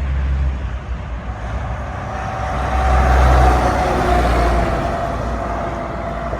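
A truck passes on the road with a deep engine rumble and a steady whine, loudest about three seconds in.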